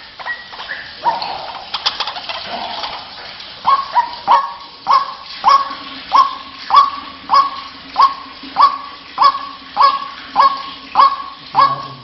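White-breasted waterhen calling: after a few loose, irregular calls, it settles a few seconds in into a steady run of short, loud notes repeated not quite twice a second.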